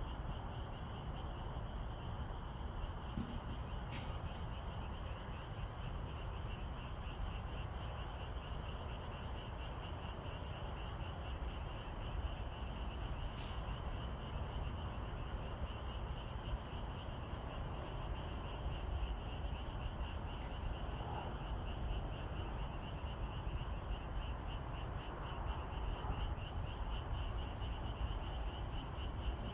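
A chorus of frogs calling in the countryside at evening: a steady, fast-pulsing high trill. It runs over a constant low rumble, with a few faint ticks.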